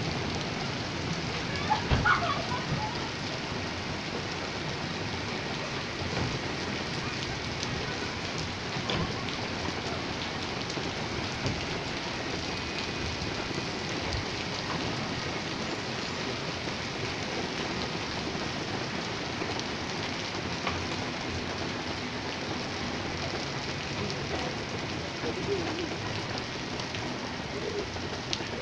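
Steady rain falling and hitting surfaces, an even hiss throughout, with a few brief louder knocks about two seconds in.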